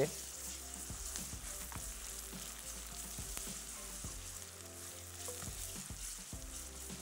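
Chopped onion, ginger and garlic sizzling in hot oil in a wok over a high gas flame, stirred with a spoon.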